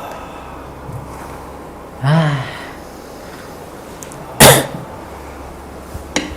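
A short grunt about two seconds in, then one loud, forceful burst of breath from a person, like a sneeze or cough, about four and a half seconds in, over a low steady hum.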